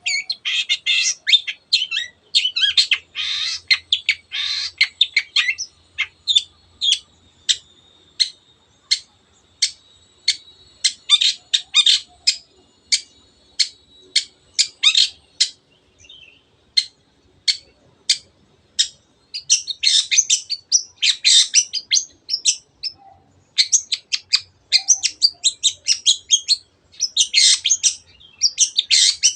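Long-tailed shrike (cendet) singing in a fast, excited song. Bursts of harsh chattering notes come at the start and again in the last third, and in between there is a steady run of short, sharp single notes at about two a second.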